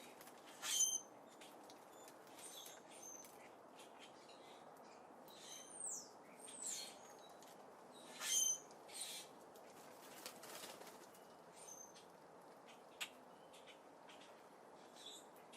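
Small birds at a seed feeder giving short, scattered chirps and call notes, a few of them quick downward-sweeping notes. The loudest come about a second in and again past the middle, over a faint steady background hiss.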